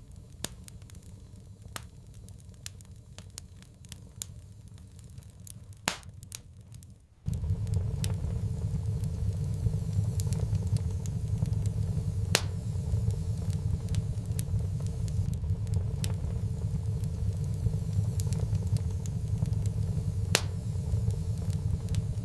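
Wood fire crackling in a fireplace, with scattered sharp pops. About seven seconds in, a low steady rumble of the fire cuts in suddenly and stays under the crackling.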